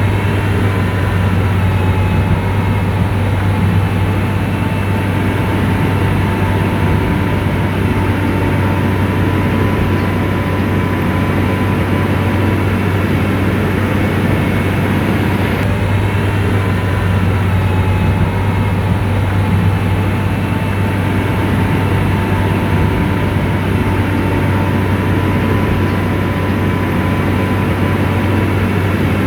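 Komatsu bulldozer's diesel engine running steadily as a deep, continuous drone, with faint whining tones above it.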